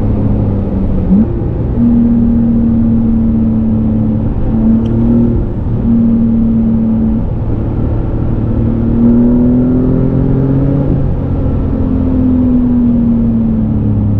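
Porsche 911 Carrera T's twin-turbo flat-six engine running as the car drives. Its pitch holds steady with a few brief breaks at first, then rises and falls gently in the second half.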